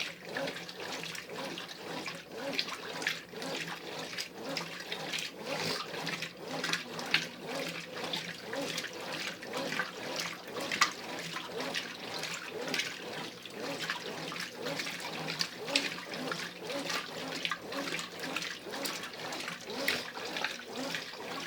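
Brastemp Ative 11 kg top-loading washing machine agitating its load: water and clothes slosh in repeated surges, about two a second, over a steady motor hum. This is the intermediate agitation of the heavy wash cycle.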